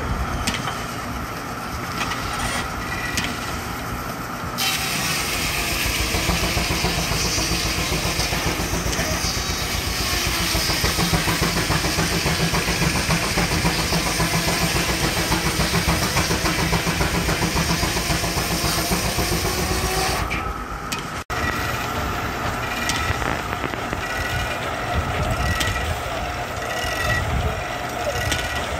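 Steam-powered sawmill with a 5-foot circular blade, driven by a Baker steam traction engine, running. About five seconds in, a louder, hissing, rushing noise sets in and lasts some fifteen seconds, as if a log is being cut. It dies away with an abrupt break near twenty-one seconds, and the machinery runs on after that.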